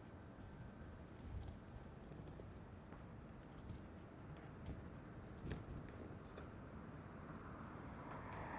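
Faint scattered light clicks and taps over a low rumble of wind on the microphone, with a rushing noise rising near the end.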